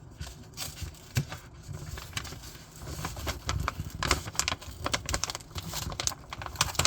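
Paper and tape crackling and rustling in irregular small clicks as a drawing taped into a sketchbook page is carefully peeled loose.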